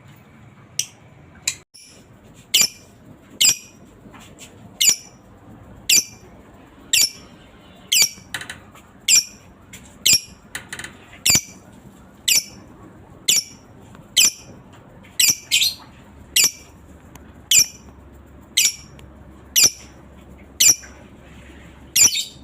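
Lovebird giving short, shrill calls about once a second, each a quick downward sweep in pitch, sometimes two close together.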